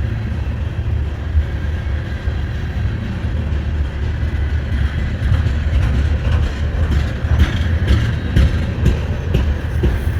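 Freight cars of a long Norfolk Southern train rolling slowly past with a steady low rumble and a few faint clicks from the wheels in the second half.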